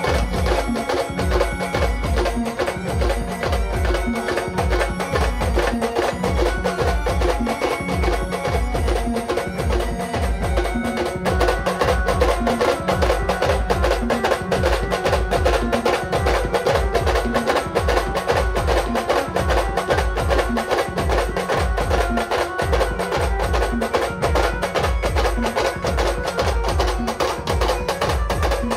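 A band party playing Ahirani dance music: a fast, steady drum beat under a held melody line, the sound getting fuller about eleven seconds in.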